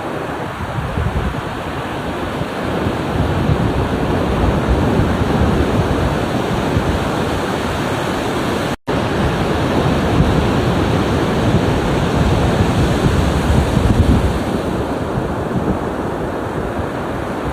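Ocean surf: waves washing and breaking in a continuous rushing wash that swells louder through the middle. The sound drops out completely for an instant about halfway through.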